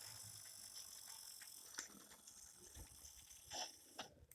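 Near silence: faint room tone with a few faint short clicks, one about two seconds in and two near the end.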